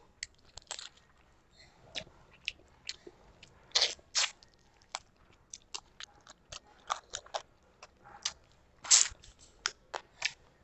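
Close-up chewing and crunching of a curried fish head eaten by hand: sharp, irregular wet clicks and crunches, loudest about four seconds in and again around nine seconds.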